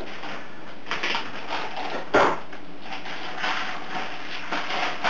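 Irregular rustling and scraping of hands handling food and materials on a work surface, with one louder knock about two seconds in.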